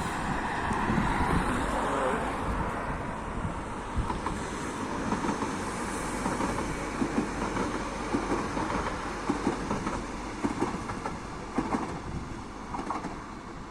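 Train running along the track, a steady rumble with the wheels clacking over rail joints at irregular intervals, fading slowly.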